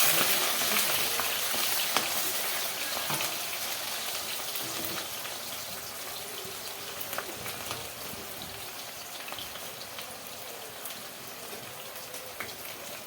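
Meat frying in a pan: a steady sizzling hiss with scattered crackles that slowly grows quieter.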